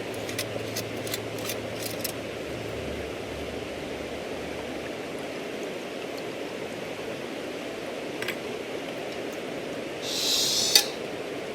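Steady rushing of a river flowing, with a few faint clicks and, near the end, a short hiss that stops with a sharp click.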